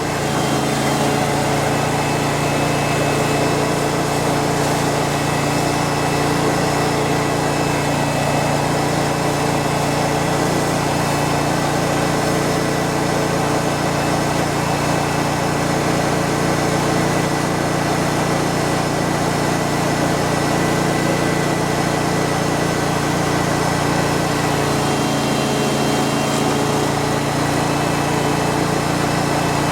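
Ditch Witch FX20 vacuum excavator running steadily with a constant machine hum, its pitch shifting slightly near the end.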